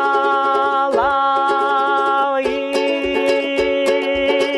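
A song with a singer holding one long drawn-out note, over strummed acoustic strings keeping a steady beat.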